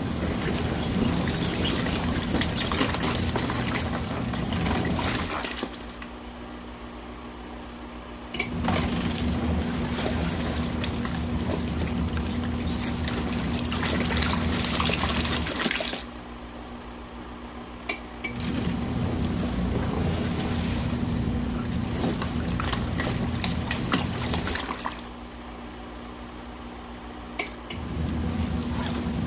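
Compact twin-tub washing machine agitating during a warm rinse: motor hum and churning, sloshing water. It runs for several seconds, pauses briefly and starts again, about every 8 to 10 seconds.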